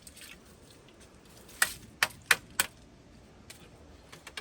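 Four sharp clicks in quick succession, about a third of a second apart, from hard objects knocking together.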